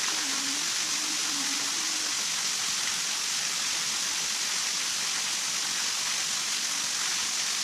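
Steady, even rushing of water, with no breaks or rhythm.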